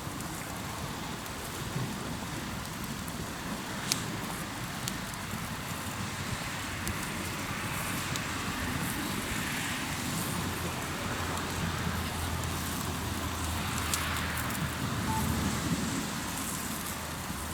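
Hardwood campfire crackling in a fire pit, with scattered sharp pops, over the steady wash of waves on the shore that swells now and then.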